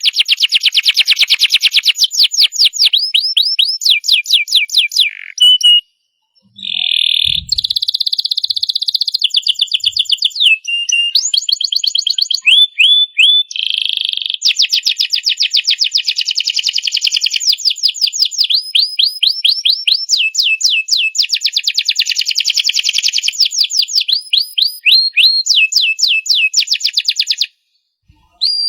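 Domestic canary singing a long song of rapid trills and quick runs of repeated whistled notes, breaking off briefly twice.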